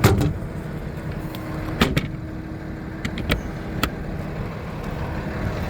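Diesel truck engine idling steadily, with a few sharp clicks and knocks over it.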